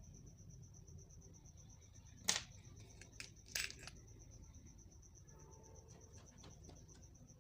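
A few sharp clicks and knocks of hard objects being handled, the loudest about two seconds in and another about a second later, with a faint steady high whine behind them.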